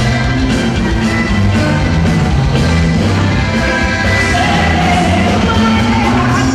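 A band playing loud live music, with held melody notes over a steady bass.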